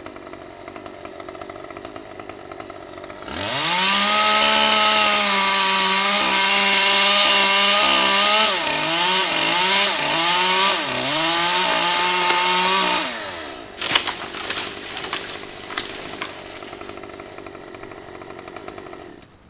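Two-stroke chainsaw idling, then revved to full throttle about three seconds in and held. Its pitch dips repeatedly as it bogs under load cutting wood, and it falls back to idle after about ten seconds. Soon after comes a quick cluster of sharp cracks and knocks, then the saw idles on.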